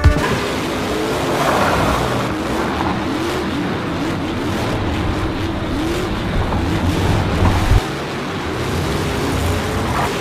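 Racing-engine sound effect: engines revving up and down repeatedly over a steady low rumble.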